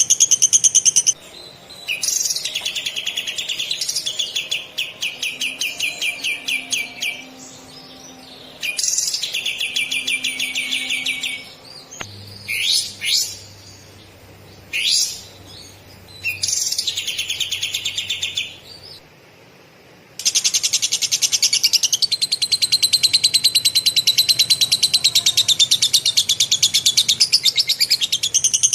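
A katem songbird singing fast, dense trills of rapidly repeated high notes in the style of lovebird chatter, in several bursts. Short separate calls come midway, and a long unbroken roll starts about twenty seconds in.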